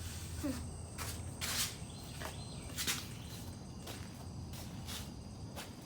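Scattered soft footsteps and rustling, about one every second or so, over a faint steady low hum.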